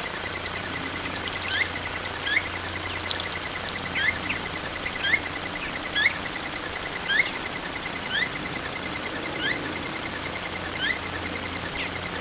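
A small bird calling over and over with short upward-sliding chirps, about one a second, with a faint, rapid, even high ticking and a low steady hum underneath.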